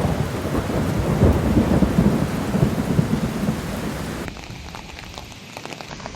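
Rain falling, under a deep, uneven rumble for about the first four seconds. The rumble stops abruptly, leaving quieter rain with separate drops ticking.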